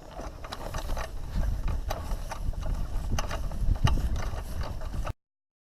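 Strong wind buffeting the microphone as a low rumble, with irregular clicks and knocks of gear being handled. Everything cuts off abruptly about five seconds in.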